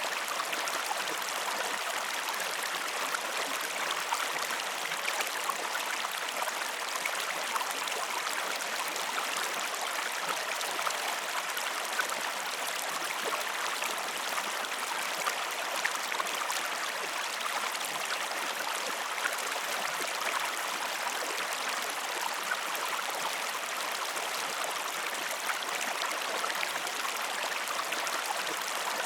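Steady running water of a stream flowing, an even rush with fine splashing detail that does not change.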